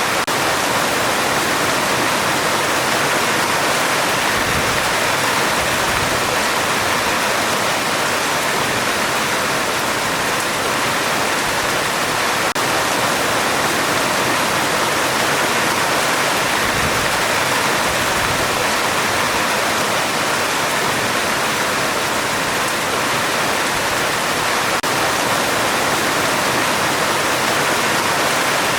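Heavy rain falling on a metal roof, a dense, steady hiss without let-up.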